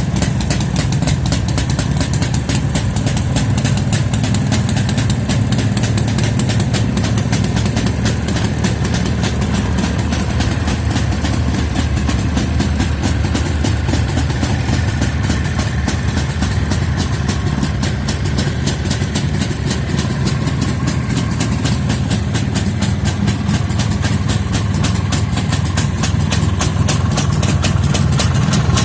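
Two-stroke motorcycle engine idling steadily on a cold winter start after weeks standing unused, rising slightly near the end.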